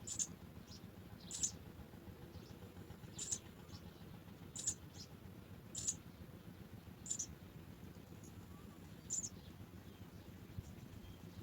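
House sparrow giving short, high chirps, one every second or so, over a low steady hum.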